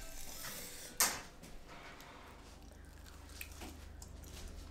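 A crisp bite into a fried snack, one loud crunch about a second in, followed by faint chewing.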